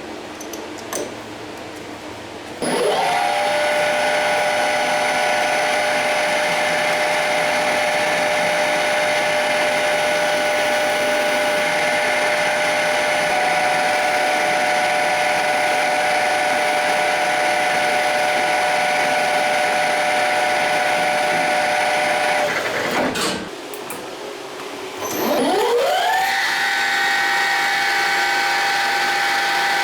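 Electric power tool motor spinning up with a rising whine, then running steadily. About twenty seconds in it stops, and a few seconds later it spins up again and keeps running.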